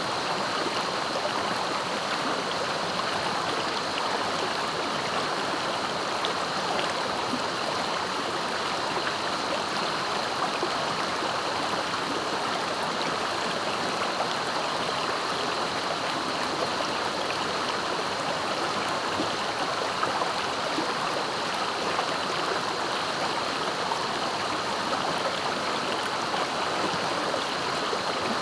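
Swift, clear river flowing: a steady rush of moving water.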